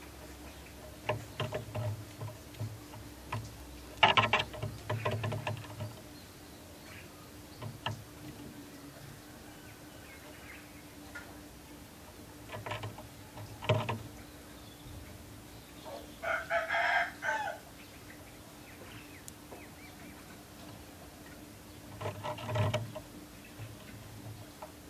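A rooster crows once, a single drawn-out call of about a second and a half, roughly two-thirds of the way through. Scattered light clicks and taps come and go around it, with a cluster of them about four seconds in, over a faint steady hum.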